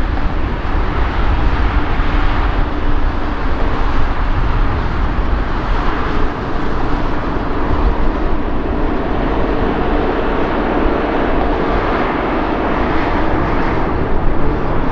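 Jet airliner engines running loud and steady throughout, a broad rumble with a few faint steady tones in it.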